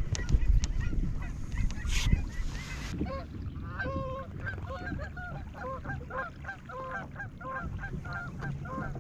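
A flock of waterfowl calling: many short honking calls overlapping and repeating rapidly from about three seconds in. A low rumble sits under them and is loudest in the first two seconds.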